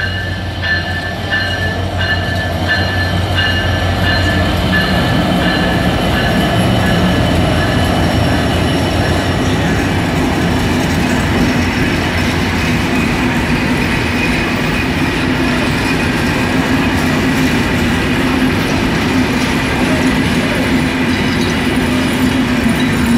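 Diesel-hauled passenger train running slowly into a station close by: the locomotive's engine drones as it passes in the first few seconds, then the coaches roll past with a steady rumble and clatter of wheels over the rail joints, and a thin steady wheel squeal.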